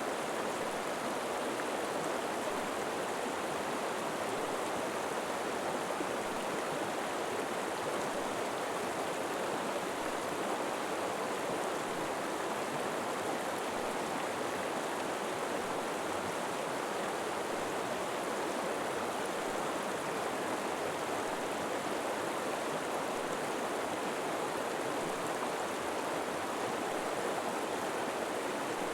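River water flowing steadily, a constant even rush of running water.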